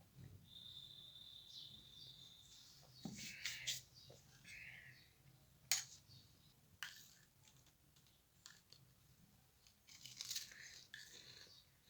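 Quiet eating sounds: soft tearing and crunching with a few sharp clicks, the loudest about six seconds in. A thin steady high tone is heard in the first couple of seconds.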